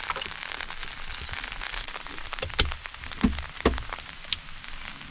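Heavy rain falling steadily, with a few sharp knocks and ticks in the second half.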